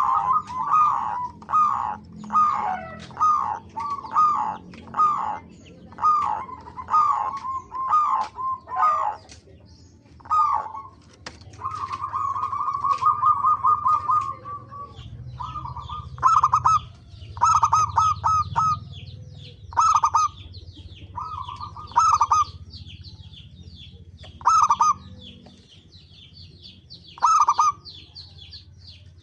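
Zebra doves (perkutut) cooing. A quick run of staccato coo phrases lasts the first nine seconds or so, a long trilled coo comes about twelve seconds in, and then short coo phrases follow every couple of seconds. Higher, thin chirps of small birds run underneath.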